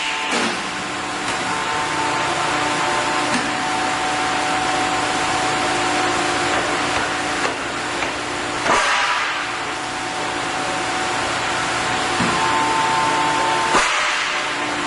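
Large metal-turning lathe running: a steady whirring machine noise with a few steady whining tones. The sound shifts abruptly about nine seconds in and again near the end.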